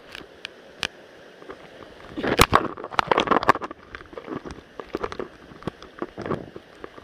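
Running stream water with a series of sharp clicks and knocks, densest from about two to three and a half seconds in.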